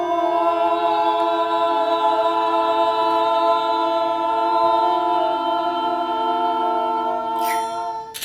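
A group of unaccompanied voices holding one sustained chord of several steady notes for about eight seconds, then cutting off together. A brief rising hiss comes just before the cut-off.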